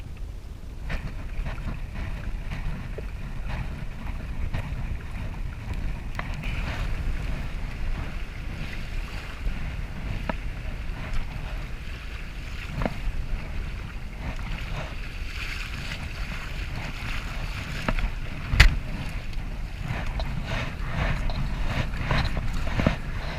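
Wind buffeting the microphone over water splashing and lapping around a kayak, with scattered small clicks and one sharp knock about three-quarters of the way through.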